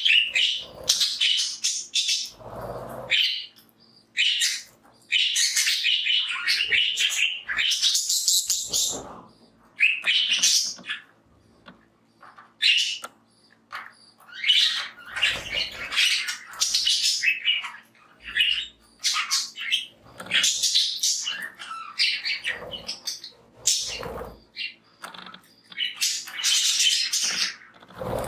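A flock of budgies chattering and chirping, many short warbling calls overlapping, with a few soft low thumps and rustles among them.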